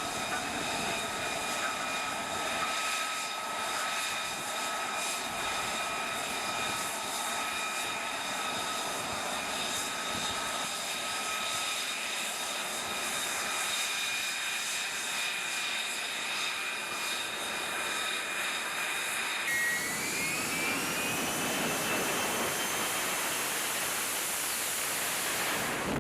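Jet engine running with a steady high-pitched whine over a loud rush. About three-quarters of the way through the sound changes abruptly, and the whine rises in pitch as the engine spools up, then holds.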